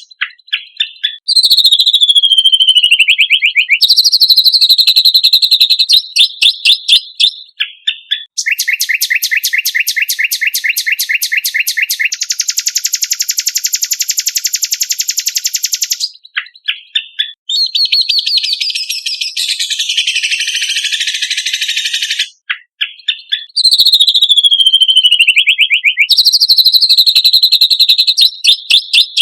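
Kecial kombok (cucak kombok) songbird singing loud, high-pitched chirps and trills. A falling trill comes near the start and again near the end, and a fast, even rattle in the middle runs into a steady buzzing note. The sections start and stop abruptly, as in an edited training recording.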